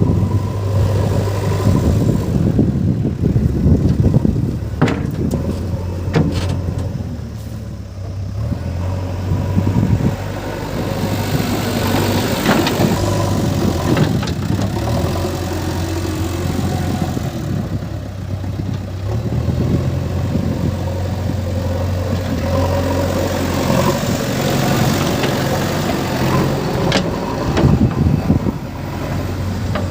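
A backhoe loader's diesel engine running steadily, its pitch rising and falling in places as it works. A few short, sharp knocks stand out over the engine.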